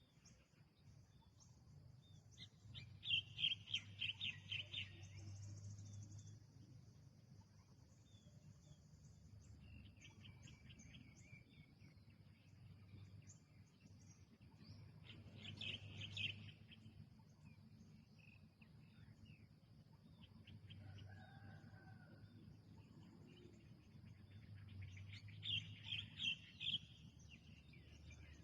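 Wild birds calling in three short bursts of quick, high chirping trills, roughly ten seconds apart, over a faint steady high-pitched drone.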